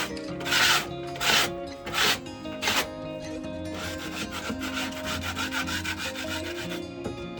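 Paint scraper scraping dried chicken droppings off a surface: four separate scrapes in the first three seconds, then a quicker run of short, rapid scrapes until near the end.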